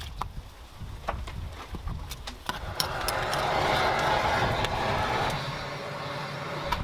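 Chicken stew sizzling on a hot cast-iron cauldron lid over a wood fire: a loud sizzle swells up about three seconds in and dies back down near the end, with scattered crackles and clicks throughout.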